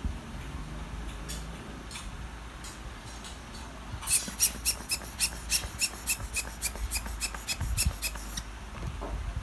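A quick run of small, sharp metallic clicks, about four or five a second, starting around four seconds in and lasting about four seconds, from hand work on a watch during a battery replacement.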